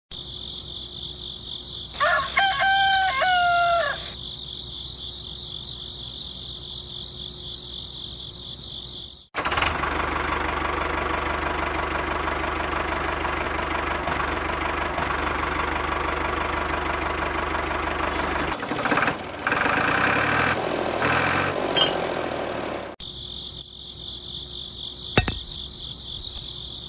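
A rooster crows once, about two seconds in, over a steady high-pitched drone. From about nine seconds a small machine runs steadily and loudly; it turns uneven after about eighteen seconds and stops about four seconds before the end, leaving the high drone again.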